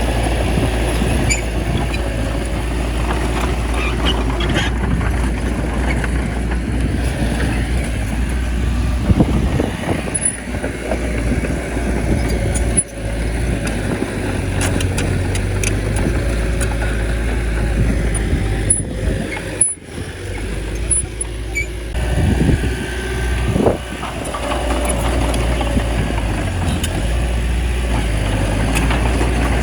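Small bulldozer's diesel engine running steadily as it pushes soil, with scattered clicks and a few brief swings in engine pitch.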